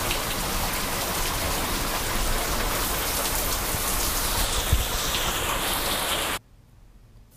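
Heavy rain falling on a brick patio, a steady hiss that cuts off suddenly about six seconds in.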